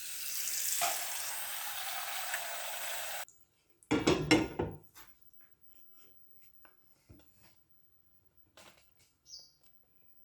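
Water running or pouring steadily for about three seconds and stopping abruptly, then a clatter of kitchenware about four seconds in, followed by a few light taps and clinks.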